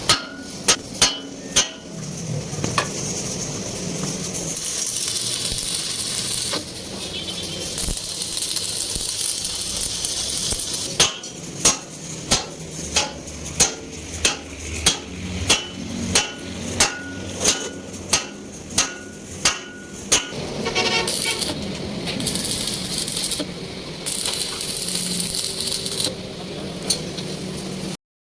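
Hammer blows on metal. A few strikes come at the start, then a steady run of about two strikes a second for some ten seconds, each with a short ring, over a steady background hum.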